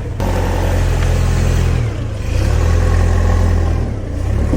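An engine running at low speed, a steady low rumble that eases and swells again about two seconds in and near the end.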